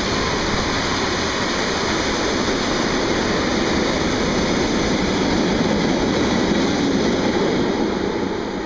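Empty iron-ore hopper wagons of a freight train rolling past at speed: a steady, loud rumble and rush of wheels on rails that begins to fade near the end as the last wagon goes by.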